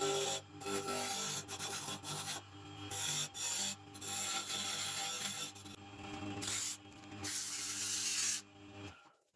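Abrasive sanding or grinding on a workpiece, coming in uneven strokes of rasping over the steady hum of a running motor. It cuts off abruptly near the end.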